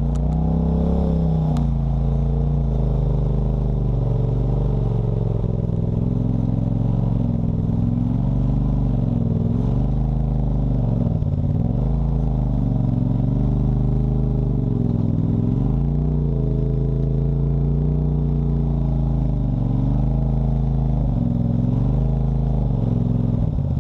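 Off-road vehicle engine running under changing throttle while driven on a trail, its pitch repeatedly rising and falling every few seconds.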